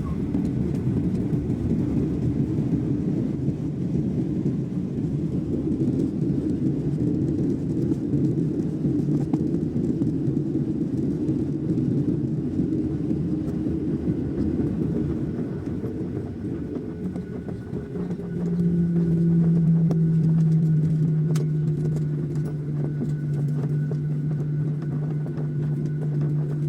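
Passenger airliner landing: a steady low rumble, and about 18 seconds in a louder, steady low drone joins it and holds.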